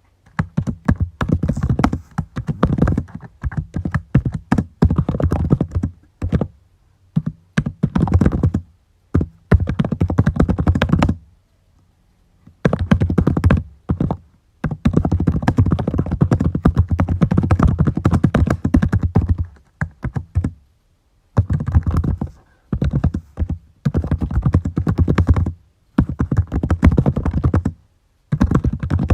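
Typing on a computer keyboard: fast runs of key clicks in bursts of a few seconds, broken by short pauses, with one longer pause of about a second and a half near the middle.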